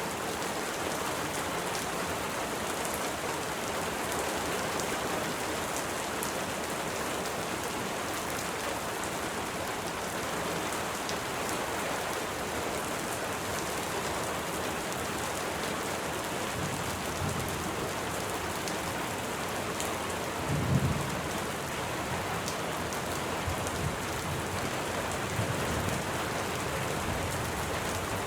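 Steady rain falling, with a few short low rumbles of thunder, the strongest about two-thirds of the way through.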